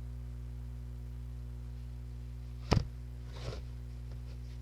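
A steady low electrical hum, with one sharp knock a little past the middle and a softer rustle about a second after it.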